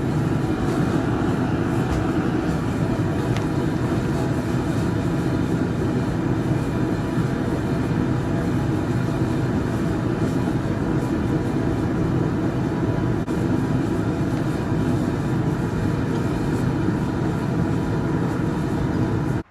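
Forge running with a steady, unbroken rush of noise while the knife blade is heated for thermocycling and quenching; it cuts off suddenly at the end.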